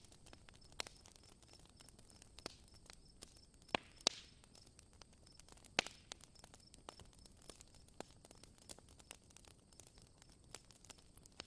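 Campfire crackling: burning wood popping in sharp, irregular cracks, the loudest about four and six seconds in, over a faint steady hiss.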